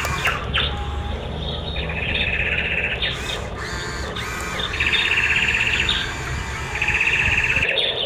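A bird calling in three rapid trills, each about a second long, with short chirps between them.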